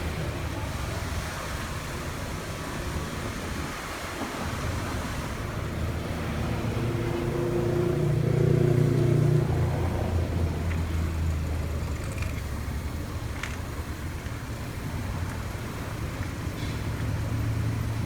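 Nissan Teana's MR20 four-cylinder engine running steadily; about seven seconds in a humming tone swells for a few seconds and then fades.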